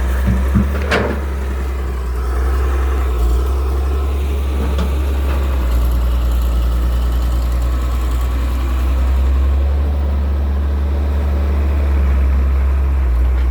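Excavator's diesel engine running steadily with a deep hum, with a sharp metallic knock about a second in.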